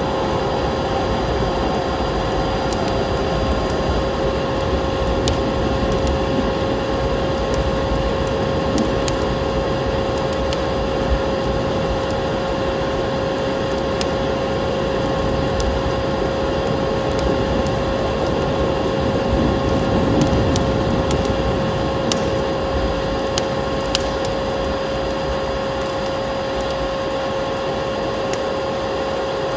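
Wood fire crackling in a fireplace, with scattered sharp pops and snaps, over a steady rushing background and a constant droning tone.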